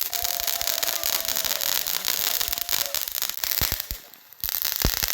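Firework fountain spraying with a steady hiss and dense, rapid crackling pops. It dies down briefly about four seconds in, then the crackling resumes.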